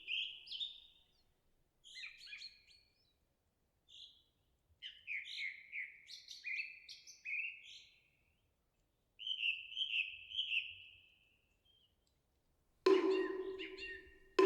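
Small songbirds singing in short, repeated chirping phrases with brief pauses. Near the end, a moktak (Korean wooden fish) is struck once: a loud hollow knock that rings on.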